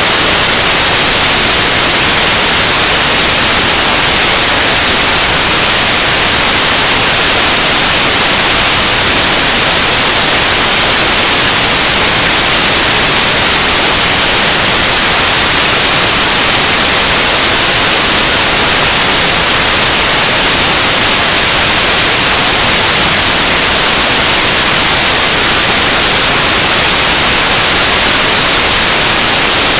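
Harsh noise music: a loud, unbroken wall of static hiss, strongest in the treble, that holds steady without beats or changes.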